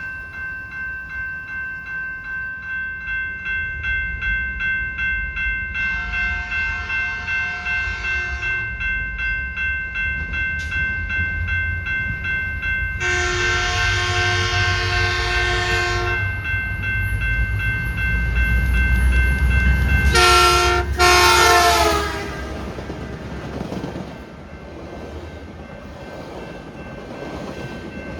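Locomotive horn sounding the grade-crossing signal (long, long, short, long) as a train approaches and passes, over a bell ringing about twice a second. The train's rumble is loudest during the last two blasts and then fades as the cars roll by.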